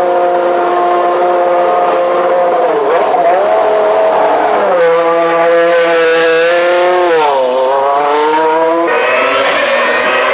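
Renault Espace F1's 3.5-litre Renault RS5 V10 running hard at high revs, its note holding steady, dipping briefly about three seconds in, then falling sharply and climbing back about seven seconds in. The sound changes abruptly twice, about five and nine seconds in.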